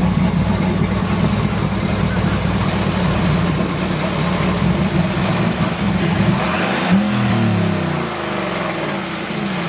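Turbocharged 2015 GMC Sierra's gas V8 running under revs; about six and a half seconds in, a rush of turbo air swells and the revs then fall away.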